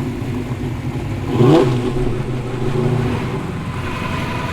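Car engine running at low revs as it drives past, with a short blip of the throttle about a second and a half in.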